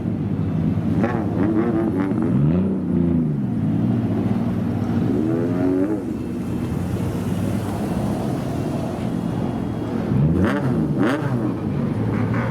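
Engines of old kaido-racer style cars idling, with throttle blips that rise and fall in pitch about two seconds in, around five seconds in, and again near the end.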